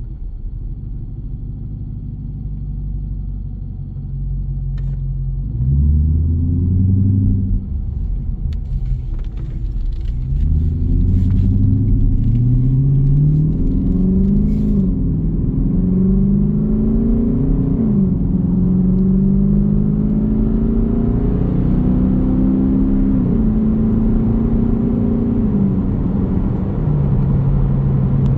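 Jeep Grand Cherokee's 5.7 Hemi V8 exhaust rumbling. It runs low at first, then pulls away about five seconds in, rising in pitch through several gears with a drop at each upshift. It settles to a steady cruise near the end.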